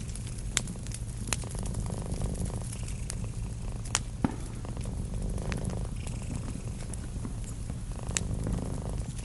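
A cat purring steadily, over the crackle of a wood fire with a few sharp pops.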